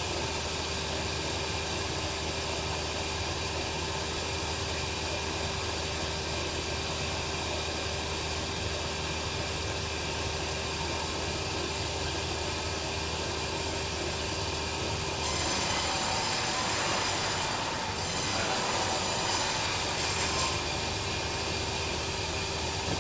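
Band sawmill running with a steady hum. About fifteen seconds in the blade bites into the log and a louder rasping saw noise comes in three stretches over about five seconds, then drops back to the running hum.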